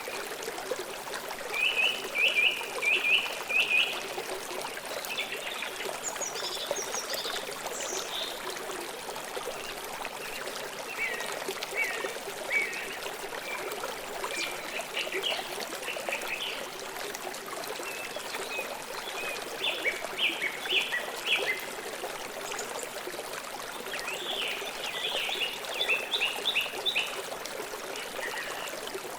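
Stream water flowing steadily, with a bird singing short runs of quick, rapidly repeated chirps, about five phrases spread through, each louder than the water.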